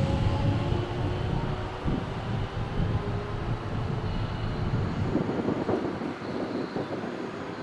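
A JR West train passing at speed on the Biwako Line: a steady rumble and clatter of wheels on rail, thinning out over the last couple of seconds.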